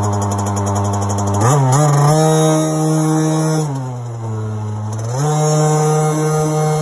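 Small 50cc dirt bike engine running: it idles, is revved up and held about a second and a half in, drops back toward idle around four seconds, then is revved and held again.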